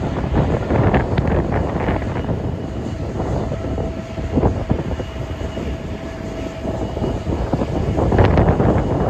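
Airliner engine noise across the airfield, mixed with strong wind buffeting the microphone; a faint steady whine is heard through the middle.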